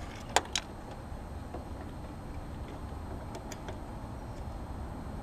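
Two sharp clicks about half a second in, then a few light ticks a few seconds later, from hands working tools and wiring inside an air-conditioner's electrical compartment, over a low steady rumble.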